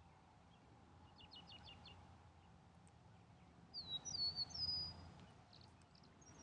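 Eastern meadowlark singing a short phrase of clear, slurred whistles that slide down in pitch, about four seconds in. Shortly before it, a brief quick run of short bird notes.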